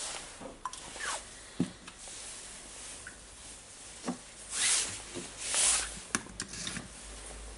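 Hand-work on tool parts: scattered small clicks and knocks of parts being handled, with two longer scraping rubs a little after the middle.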